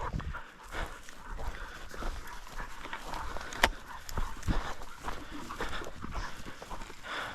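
Bird dog panting, with scattered clicks and knocks; one sharp click about halfway through is the loudest sound.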